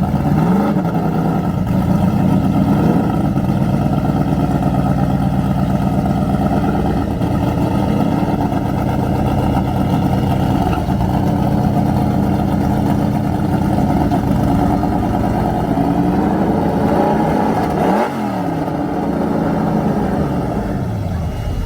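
A car engine running steadily at idle, with a brief rev about half a second in and another near the end.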